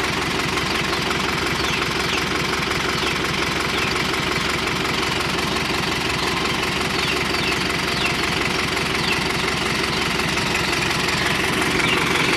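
Sonalika All Rounder 55 tractor's diesel engine running steadily.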